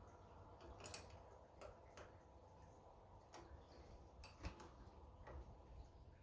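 Faint, scattered clicks and light taps of a wrench tightening a bolt on a tractor's throttle cable mount, with one sharper click about a second in.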